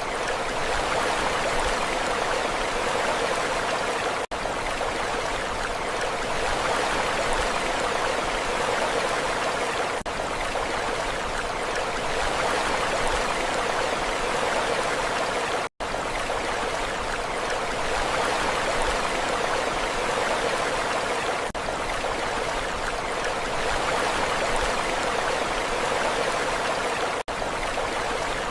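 Steady rushing water, an even hiss with no rise and fall of waves, broken by three brief dropouts about eleven seconds apart.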